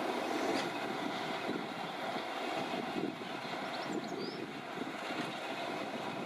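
A railway train running: a steady, rough rumble with a faint steady whine above it. Wind noise is on the microphone, and a bird chirps briefly about four seconds in.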